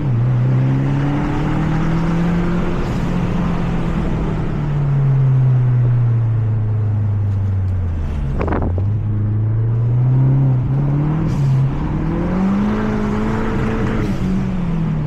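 Mazda 3 MPS (Mazdaspeed3) turbocharged 2.3-litre four-cylinder heard from inside the cabin at speed on track. The engine note falls slowly for about eight seconds, a short sharp burst comes about halfway through, then the revs climb again and drop back near the end, as at a gear change.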